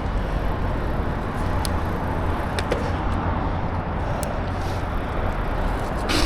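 Steady rumble and hiss of a bicycle being ridden, with a few faint ticks.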